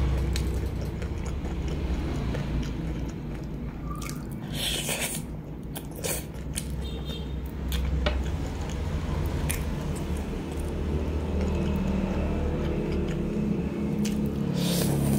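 Close-up chewing of fried chicken meat: wet squishing mouth sounds and small clicks, with two brief rustles, about five seconds in and near the end.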